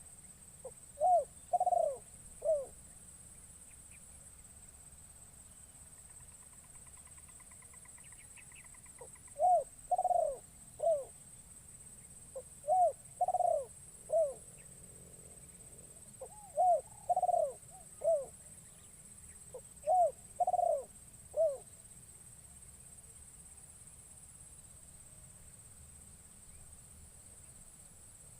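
Spotted dove (terkukur) cooing: five phrases of three or four short coos, each rising and falling, spaced a few seconds apart and stopping about two-thirds of the way through. It is the decoy bird calling to lure wild doves.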